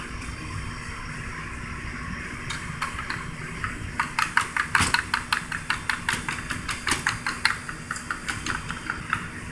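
Rapid clicking of a utensil against a bowl, about five strokes a second, as egg is beaten or stirred for the custard filling. It starts a couple of seconds in and trails off near the end.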